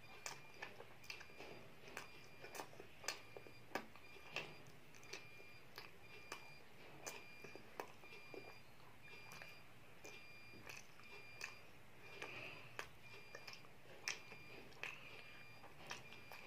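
A child chewing chicken satay close to the microphone: soft wet mouth clicks and smacks at an irregular pace. Under it, a faint high-pitched tone pulses a little more than once a second.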